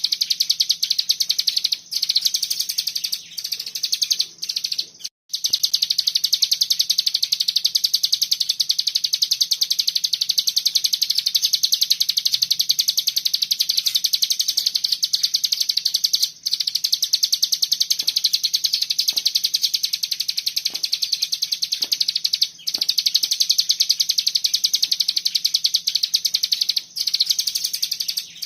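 A cigun songbird singing a fast, tight 'bren' trill: a dense run of high-pitched notes that goes on almost without a break. It stops only for brief pauses, near 2, 5, 16 and 23 seconds in.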